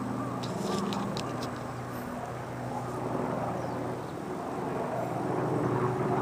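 An engine running steadily, a continuous drone with a few sharp clicks in the first second and a half.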